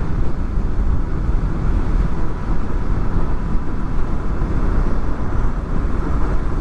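Steady, loud riding noise from a Honda VFR800 on the move: a deep wind rumble on the helmet microphones, muffled by furry windshields, with the V4 engine and road noise running underneath.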